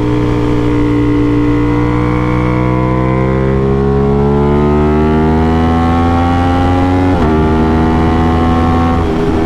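Aprilia RS660's parallel-twin engine through an SC-Project CRT exhaust, pulling hard with its note rising steadily under acceleration. The note breaks and steps down with a quick upshift about seven seconds in, then holds before another shift near the end.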